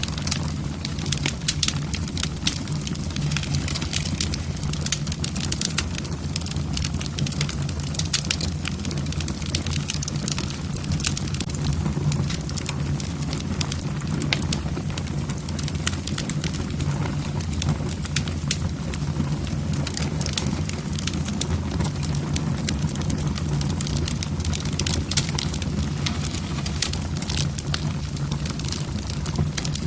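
Wood fire burning in a fireplace, the logs crackling and popping irregularly over a steady low rumble.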